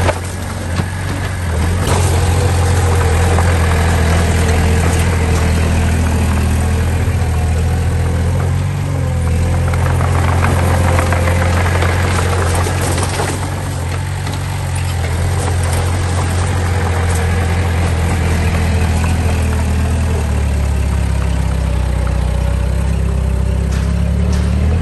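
Diesel engine of heavy earthmoving equipment running steadily at a low, even pitch, dropping a little lower about twenty seconds in.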